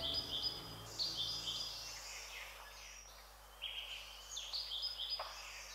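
Birds chirping and singing in repeated short high phrases.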